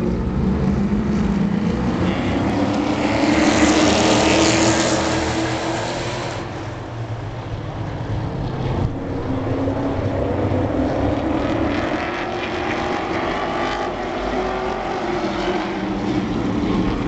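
Race trucks' engines at speed, a pack running together with the engine pitch rising and falling as they go by; one pass is louder and closer about three to six seconds in.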